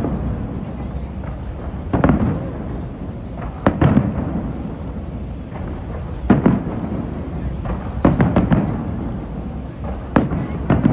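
Aerial fireworks exploding in a series of sharp bangs and crackles, a cluster about every two seconds, over a continuous low rumble.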